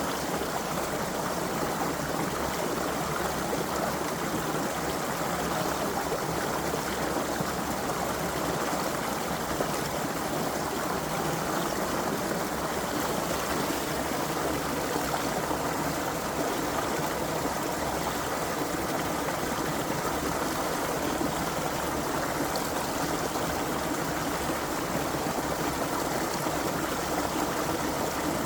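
Creek water running steadily over stones, a constant splashing and trickling.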